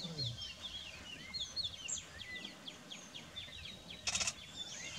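Wild birds calling: a fast run of short, high, falling chirps with a few lower whistled notes between them, and a brief rattling burst about four seconds in.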